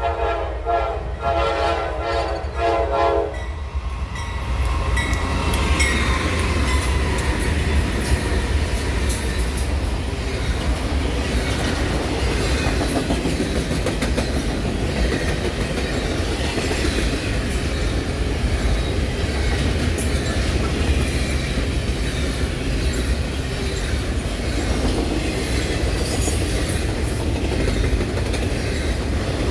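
A Norfolk Southern train's locomotive horn sounds one chord that cuts off about three seconds in. The train then rolls past, a steady rumble with wheels clattering over the rail joints.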